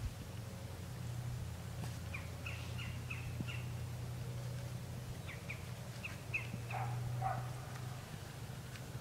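Songbird chirping in two quick runs of short notes, about three seconds apart, over a steady low hum.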